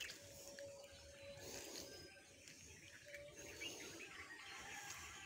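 Faint outdoor ambience with small birds chirping now and then in the distance.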